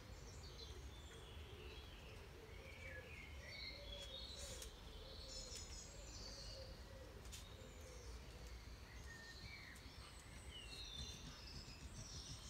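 Faint birdsong: small birds chirping and twittering in many short rising and falling phrases, over a low steady background rumble.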